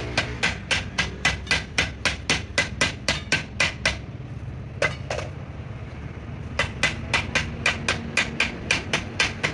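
A hammer striking repeatedly in a fast, even rhythm, about four blows a second, stopping about four seconds in for a couple of seconds with only two lone blows, then resuming at the same pace. A steady low hum runs underneath.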